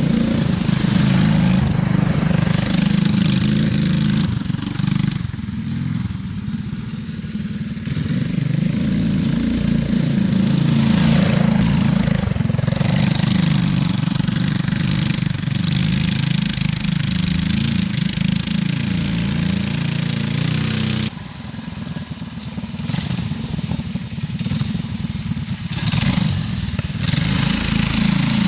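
Off-road go-kart's two small engines running under driving, their pitch rising and falling as they rev. About 21 seconds in the sound cuts abruptly to a quieter stretch, then builds again.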